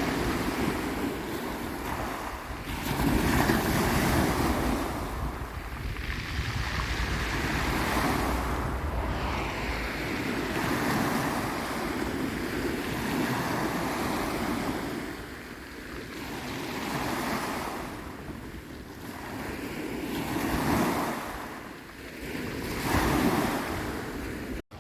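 Waves washing onto the shore in swells every couple of seconds, with wind buffeting the microphone, heaviest in the first half.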